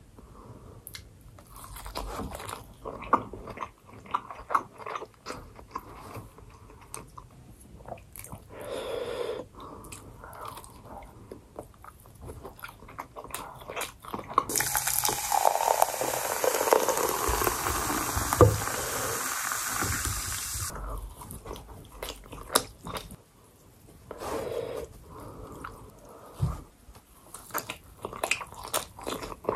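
Close-miked chewing and biting of sushi rolls. About halfway through, a long breathy blow of air through pursed lips lasts some six seconds, a reaction to the heat of Samyang hot sauce.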